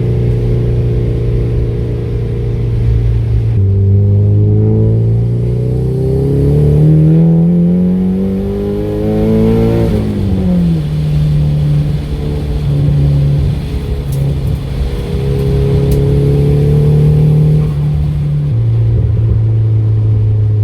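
Nissan S15 Silvia's engine running and revving. It holds a steady note, then climbs in pitch for several seconds and drops sharply about ten seconds in. It holds a higher steady note and falls back near the end.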